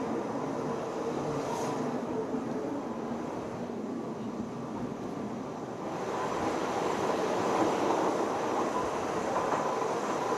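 Train running, a steady rumble with a faint steady hum, growing louder about six seconds in.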